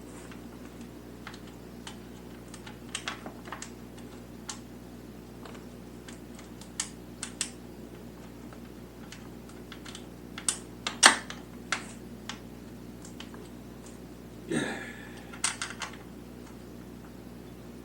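Scattered clicks and knocks in small clusters as a motor mount bolt is worked through the motorcycle engine's mounts and frame, with the loudest knock about eleven seconds in and a brief scrape near the end.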